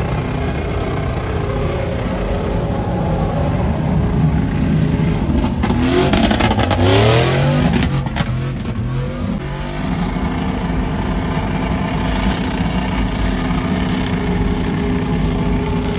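Truck engine revving hard and accelerating, its pitch climbing from about five and a half seconds in and dropping off near eight seconds, over a steady engine rumble.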